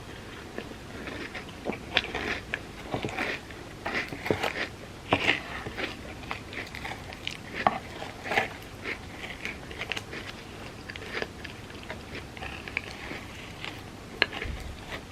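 Close-miked eating sounds of a person chewing a Biscoff cookie-butter ice cream sundae: many short, wet mouth clicks and smacks, with a few louder clicks standing out.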